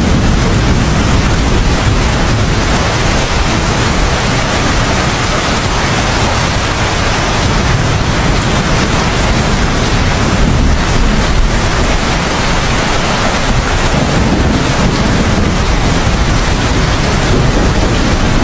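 Heavy, steady rain with a low, continuous rumble underneath.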